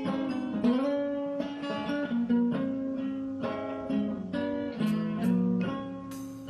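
Acoustic guitar strumming chords, with notes ringing on between the strums.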